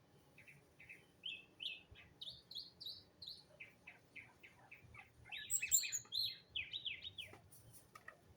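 A songbird singing: a quick run of short chirping notes, loudest and highest about five to six seconds in, then stopping shortly before the end.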